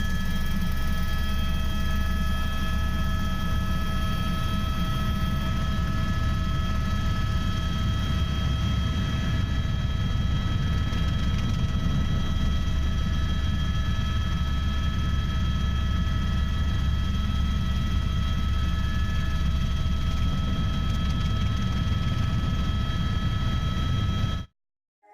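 Helicopter running steadily: a constant low rotor rumble with a steady high engine whine over it. It cuts off abruptly near the end.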